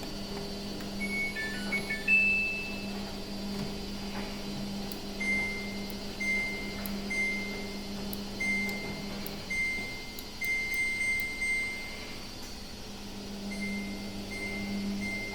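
Samsung washing machine control panel beeping. About a second in it plays a short jingle of a few tones; then come single short beeps at one pitch, about one a second, with a pause near the end. A steady low hum runs under them.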